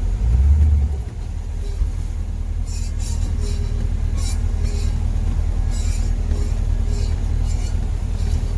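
M1028 CUCV's 6.2-litre diesel V8 running under the cab as the truck is manoeuvred on an icy hill, with a louder low surge for about a second near the start. Short high hissing bursts come irregularly over it.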